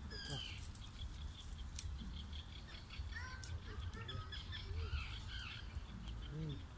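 Small birds chirping and calling repeatedly, with a few sharp clicks close by.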